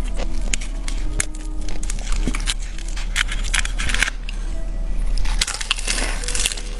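Close-miked chewing of crispy fried chicken: irregular crunching and crackling bites with wet mouth sounds.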